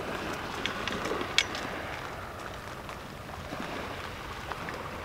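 Steady hiss of light rain falling, with a few small clicks and knocks as a beach-casting rod is handled in its tripod rod rest; the sharpest click comes about one and a half seconds in.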